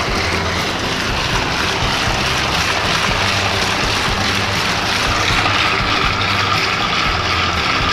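Ice cream churning machine running steadily: a low motor hum under a constant rushing, churning noise.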